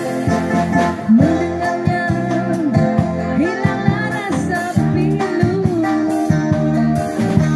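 A woman singing a bossa nova song, accompanied by plucked guitar chords from a busker band.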